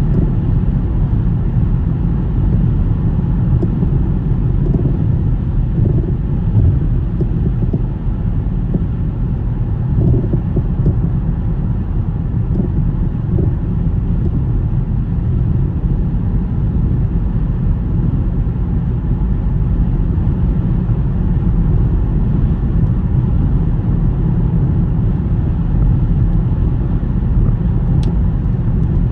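A car driving on a snowy road: a steady low rumble of tyres and engine.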